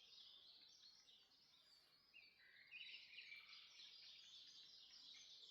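Dawn chorus of many songbirds singing at once: faint, dense, overlapping high chirps and trills.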